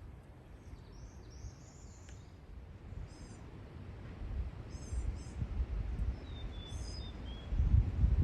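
Songbirds calling: a short warbling call, then several quick clusters of descending chirps and a thin whistled note. Under them is an irregular low rumble that grows louder in the second half and is the loudest sound.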